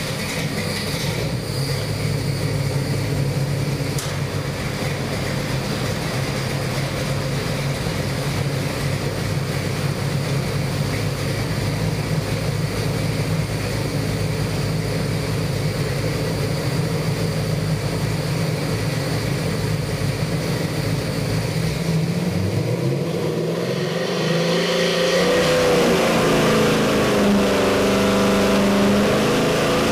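383 stroker small-block Chevy V8 with MSD Atomic EFI running on an engine dyno, just after start-up: it idles steadily, then about three-quarters of the way through the revs climb and hold at a higher, steady speed.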